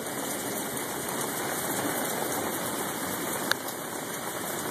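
Heavy rain pouring down steadily in a downpour of over an inch in ten minutes, with one sharp tap about three and a half seconds in.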